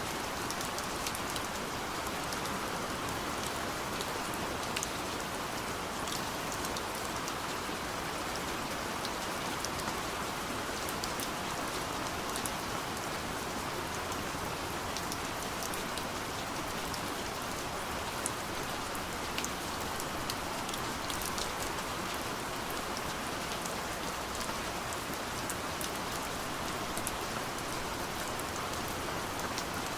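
Steady soft rain falling, with scattered small drop ticks on a window pane.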